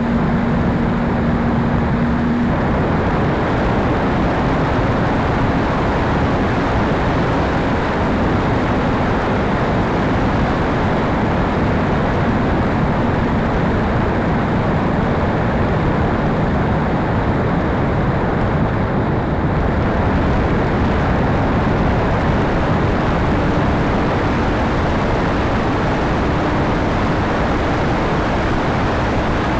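Steady rush of wind across the microphone, with a faint steady hum for the first couple of seconds and again near the end.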